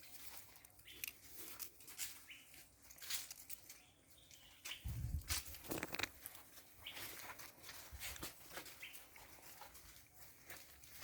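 Faint rustling with scattered small clicks and ticks, and a low thump about five seconds in.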